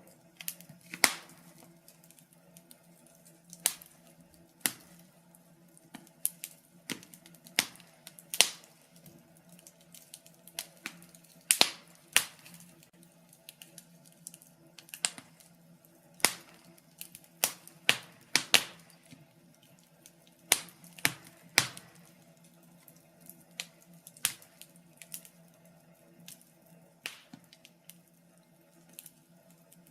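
Wood fire in a fireplace crackling, with irregular sharp pops and snaps from the burning logs every second or so, some much louder than others. A faint steady low hum runs underneath.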